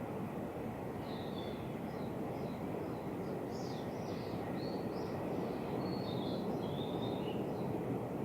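Small birds chirping in a run of short, high calls over a steady low rumble of background noise.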